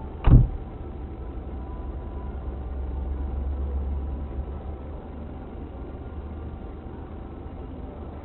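Steady low rumble of a car's engine and road noise, swelling a little in the middle, with one sharp thump about a third of a second in.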